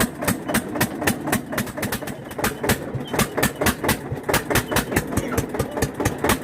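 Eicher 241 tractor's single-cylinder diesel engine running at a steady low speed, its exhaust firing in sharp, even beats about six times a second.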